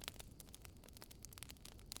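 Wood fire crackling in a fireplace: irregular sharp pops and snaps over a faint low rumble of the flames.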